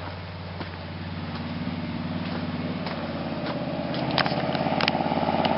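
A 1988 Ford F-150 mud truck's 302 (5.0 L) V8 running steadily, growing gradually louder, with a few sharp clicks near the end.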